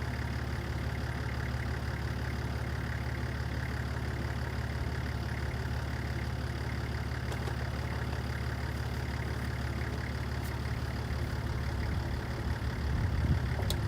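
A vehicle engine idling steadily, growing louder and rougher in the last couple of seconds.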